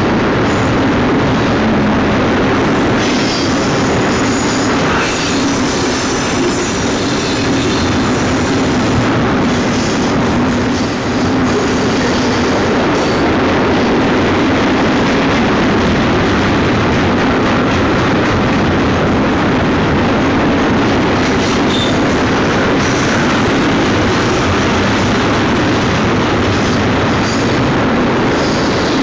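Union Pacific double-stack container well cars rolling past close by: a steady, loud rumble of steel wheels on rail. Thin high-pitched wheel-squeal tones come and go above it.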